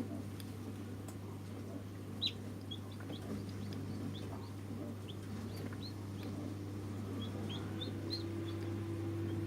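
Newly hatched chicks peeping: many short, high cheeps that fall in pitch, scattered irregularly, over a steady low hum.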